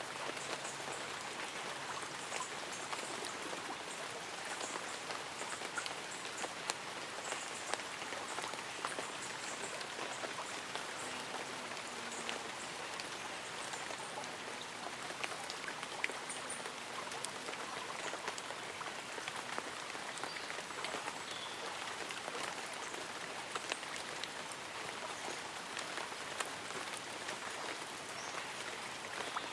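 Light rain pattering steadily on leaves and an umbrella, with a gentle stream running beneath it. A few faint high chirps of birds or insects come through now and then.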